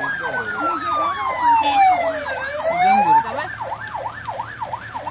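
Emergency vehicle sirens passing close by: a fast yelp, about three rises and falls a second, throughout, with a second, slower wailing siren that falls and then rises again before dropping out about three seconds in.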